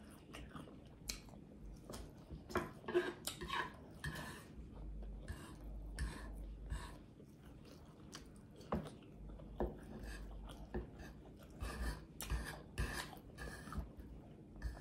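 Close-miked chewing with open-mouth smacking, a string of irregular wet smacks and clicks as a mouthful of food is eaten.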